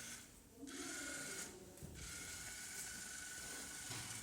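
Fire Bird V robot's small geared DC motors running as it drives, a steady mechanical whir with a thin steady whine, cutting out briefly twice.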